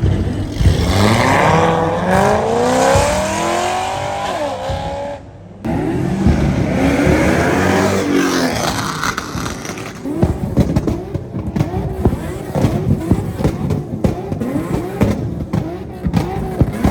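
A car engine revving hard and accelerating, its pitch climbing, then falling. The sound drops out briefly about five seconds in and picks up again with another hard rev. Later it turns choppy, with quick uneven rises and falls.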